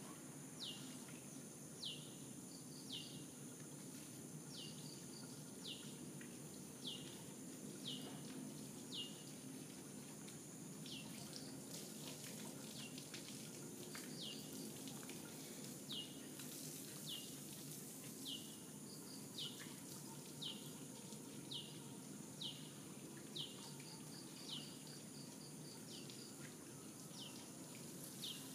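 A bird repeating a short, high call that slides downward, about once a second with a brief gap near the middle, plus a few faint quick trills between calls. Beneath it runs a faint steady low background hum.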